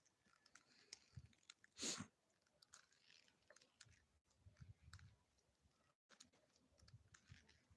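Near silence with scattered faint clicks and one brief, louder rustle about two seconds in.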